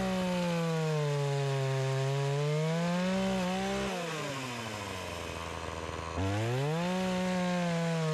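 Gas chainsaw cutting through a fallen tree trunk: the engine runs at full throttle, its pitch sagging and recovering as the chain bites into the wood. It drops back to idle about 4 seconds in, then revs up again about 6 seconds in.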